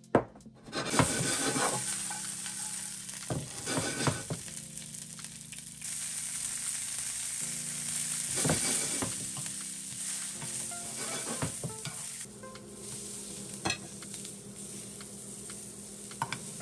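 Asparagus spears sizzling in hot olive oil in a nonstick frying pan, starting about a second in, with metal tongs clicking and scraping against the pan as the spears are turned.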